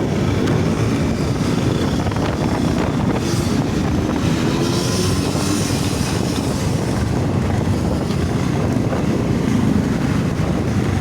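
Riding on a motorcycle: wind rushing over the microphone, with the motorcycle's engine running underneath.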